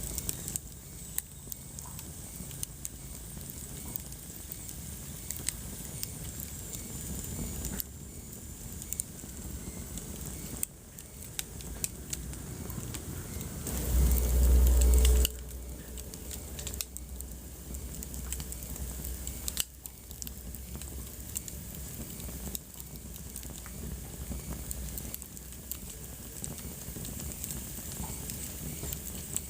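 Wood fire burning in a fireplace, crackling with many short sharp pops over a steady hiss. About halfway through, a low rumble swells for about a second and a half.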